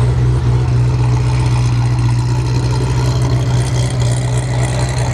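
A car engine idling steadily, a loud, even low drone without revs.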